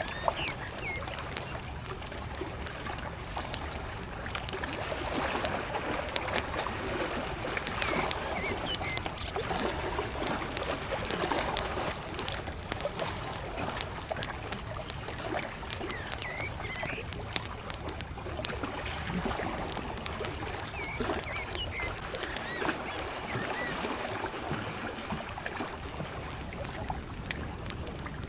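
Campfire crackling with frequent sharp pops, over small lake waves lapping that swell and ebb. A bird chirps briefly a few times in the distance.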